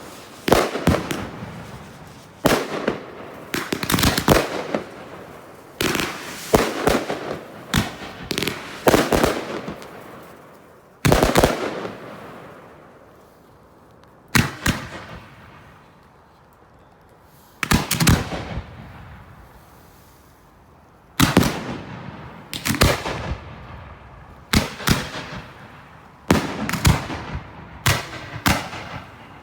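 Consumer fireworks going off in a display: sharp bangs, mostly in quick clusters, each trailing off in a crackle or hiss. Through the middle the bangs thin out to single reports a few seconds apart, then come thick and fast again near the end.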